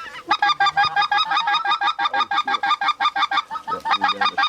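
Goose honking in a rapid, even run of several honks a second, breaking off briefly about three and a half seconds in and then starting again.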